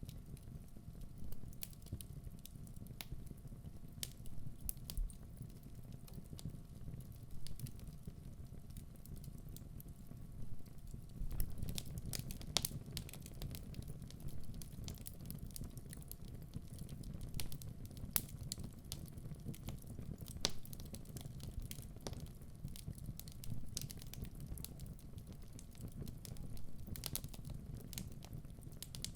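Wood fire in a fireplace burning, with a steady low rumble and frequent irregular crackles and pops from the logs, which come more thickly from about a third of the way in.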